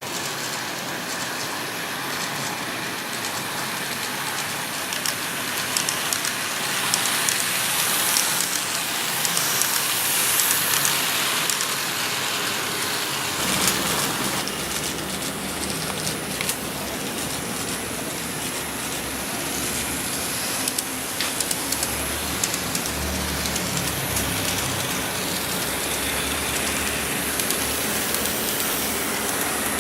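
E655 series train running along the track, a steady rushing noise with many sharp clicks. A deeper rumble joins about halfway through.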